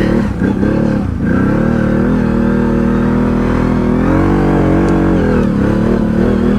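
ATV engine running under load, its pitch holding fairly steady. It dips briefly about a second in and again near the end, and rises a little around four seconds in.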